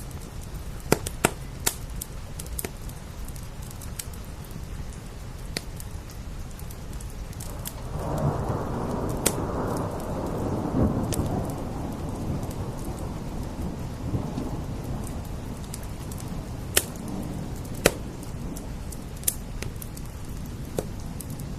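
Wood fire crackling with scattered sharp pops over steady rain. About eight seconds in, a roll of thunder swells and fades away over several seconds.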